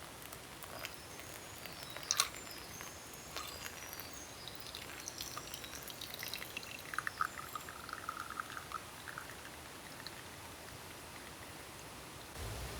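Scattered light clicks and taps of small objects being handled, with a short run of quick small clinks about seven seconds in, over a steady soft outdoor hiss.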